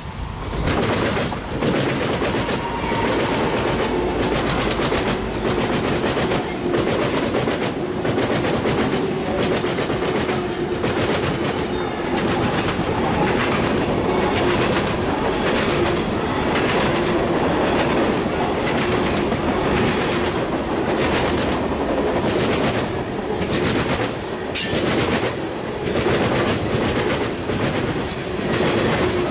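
Train passing close by: the loudness jumps as it arrives about a second in, then its wheels keep up a rhythmic clickety-clack over the rail joints as the cars roll past.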